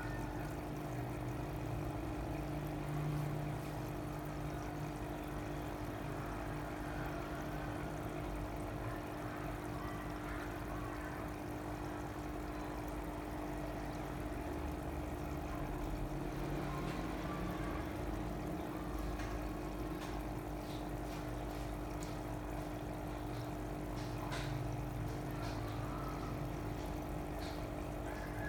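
Water pouring and trickling steadily, with a steady hum underneath.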